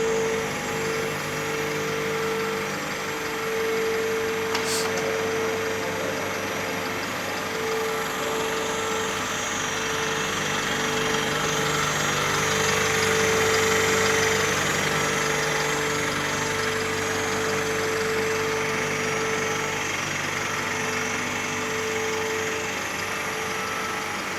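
Minipacker garbage truck running steadily, its engine and body equipment working, with a constant humming tone over a steady mechanical noise. A brief click sounds about five seconds in.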